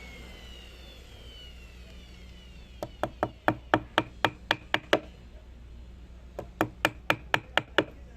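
Quick hammer blows knocking on wood, about four a second, in two runs with a pause of over a second between them.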